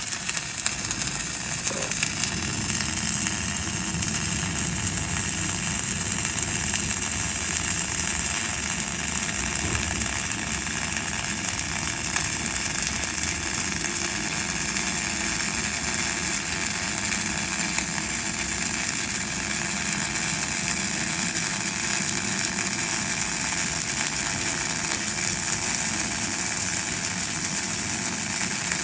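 Welding arc burning steadily through a long, continuous bead.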